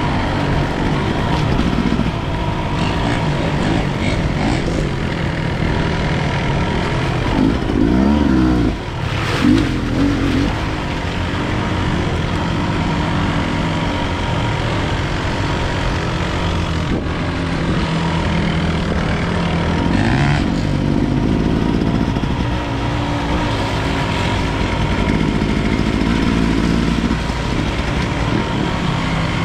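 250 cc enduro motorcycle engine running under way, its revs rising and falling with the throttle, with sharp rev swings about a third of the way in.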